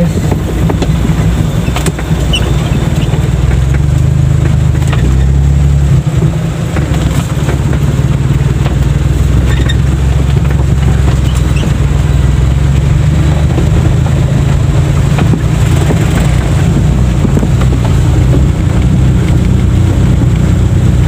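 Daihatsu Charade G10's three-cylinder engine running while the car drives over a rough dirt road, heard from inside the cabin: a steady low drone whose note shifts about six seconds in, with a few brief knocks.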